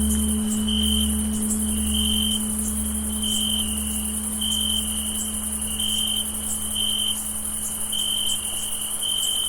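Crickets chirping in short, even trills about once a second over a steady high-pitched insect chorus. Beneath them, the low hum of a tolled bell fades away.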